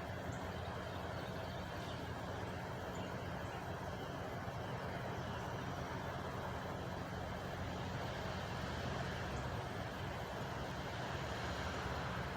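Truck engine idling steadily, an even low hum that does not change.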